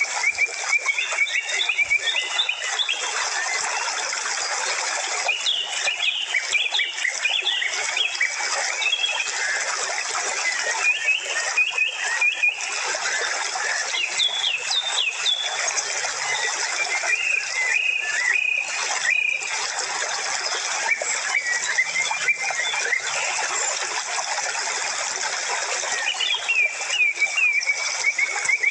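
Birds chirping in short twittering phrases over a steady hiss.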